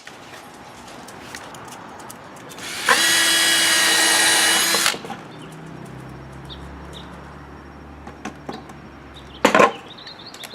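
Electric drill running at a steady speed for about two seconds, then stopping. A sharp knock about a second before the end.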